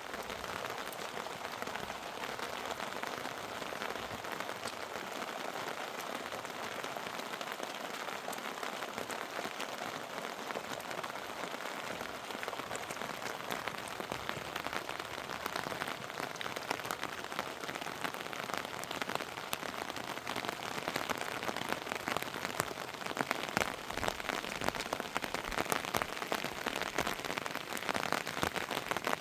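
Heavy rain falling steadily, with dense patter of individual drops; it grows heavier and louder in the last third.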